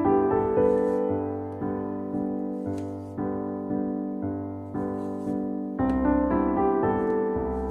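Background piano music: gentle notes struck about twice a second, each ringing and fading.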